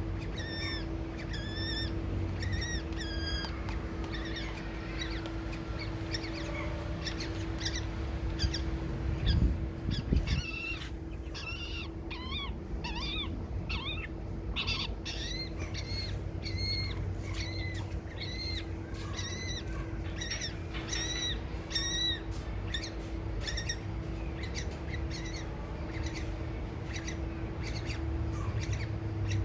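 Baby birds chirping over and over, short high calls that bend in pitch, with a steady low hum underneath. Two knocks about nine and ten seconds in are the loudest sounds.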